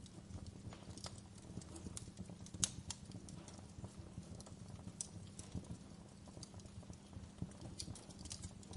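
Log fire crackling, with irregular sharp pops and snaps over a low steady rumble of the flames; the loudest pop comes a little before the middle.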